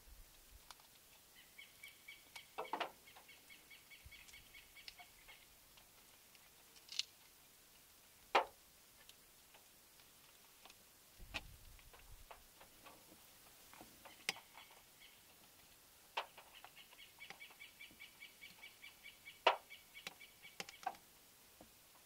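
A bird gives a rapid, evenly pulsed high trill twice, a few seconds long near the start and longer in the second half, over soft clicks and rustles of avocado skin being peeled off by hand.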